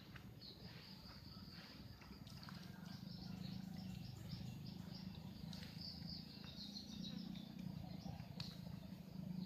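Outdoor natural ambience: a continuous, rapid high-pitched chirping trill over a steady low hum.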